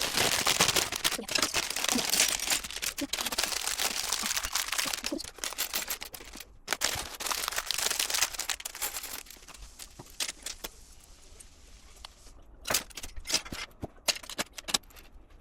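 Small plastic LEGO pieces clattering and clicking as they are handled and sorted. The clatter is dense for the first half, then thins to scattered sharp clicks.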